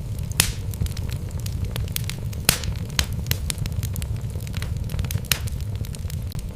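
Wood fire crackling in a fireplace: sharp pops at irregular intervals over a steady low rumble.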